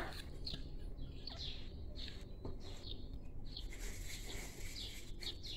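Small birds chirping faintly: short, high calls about once a second, over a low steady background hum.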